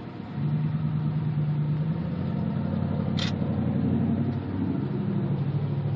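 Car engine running, its note starting about half a second in, rising slightly in the middle and settling lower in the last seconds. A brief hiss about three seconds in.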